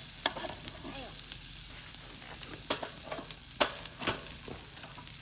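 Beef sizzling on a grill over high heat: a steady hiss with scattered pops and crackles, a few sharper ones in the second half.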